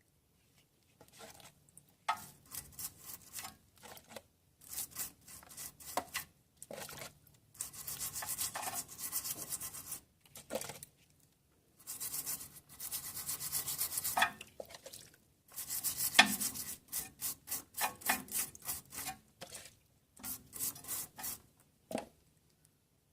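Repeated rubbing and scraping strokes, some quick and some drawn out over a second or two, in bursts with short pauses between them, and a run of quicker strokes in the second half.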